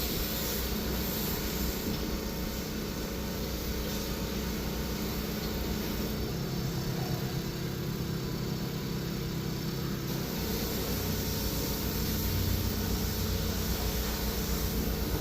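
A machine running steadily with a low hum and fast even pulsing. Its tone shifts for a few seconds between about six and ten seconds in.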